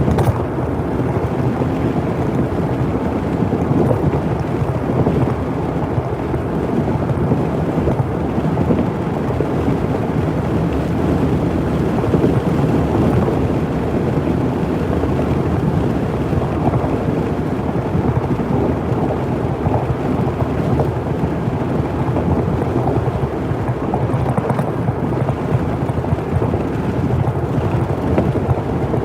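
Steady rumbling road and wind noise of a vehicle driving, with no breaks.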